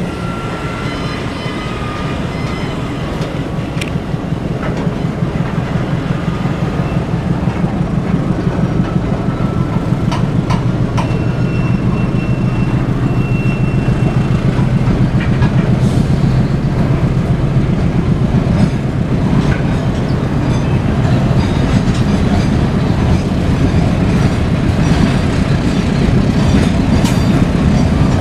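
Two diesel-electric locomotives hauling a train of tank wagons, their engine drone steadily growing louder as they approach, with wheels clacking over rail joints and a few brief high wheel squeals.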